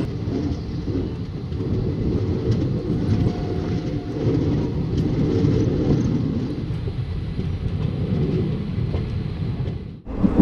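Passenger train running on the track as it gathers speed after a station departure: a steady low rumble of the coaches' wheels and running gear, heard from the side of a moving coach. It drops out briefly near the end.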